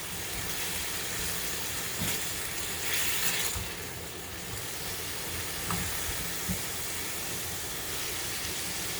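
Small boneless chicken pieces frying in oil in a pan: a steady sizzle, with a few small clicks.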